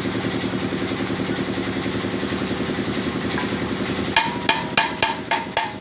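An engine idling steadily. About four seconds in, a quick run of sharp hammer blows on metal starts, about three or four a second, each with a brief metallic ring.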